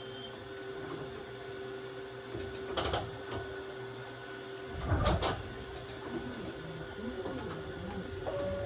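Aoimori Railway 701-series electric train running, with a steady hum and two sharp knocks from the running gear, a couple of seconds apart, the second with a heavy low thud. A chime tone starts near the end.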